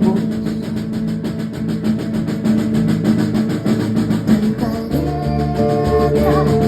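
Live band music: an instrumental passage of a song played over a steady beat, with sustained notes.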